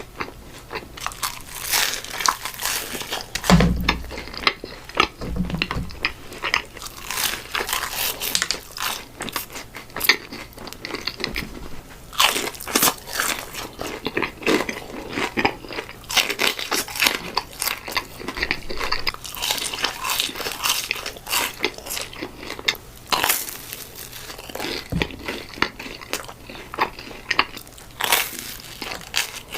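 Close-miked eating of Raising Cane's fried food: a person takes repeated crunchy bites and chews, in a quick run of crisp crackles, with a low thump about three and a half seconds in.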